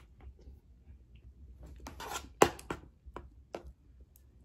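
Mouth sounds of someone eating a soft banana and whipped-cream dessert off a fork: quiet chewing and wet smacks, with a cluster of sharp clicks about two seconds in.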